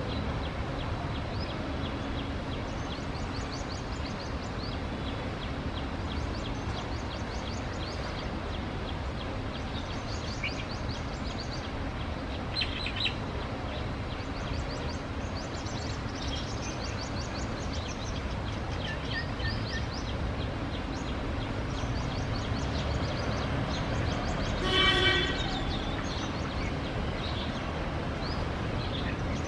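Small birds chirping in quick, high twittering runs over a steady low rumble of background noise, with a brief loud honk about 25 seconds in.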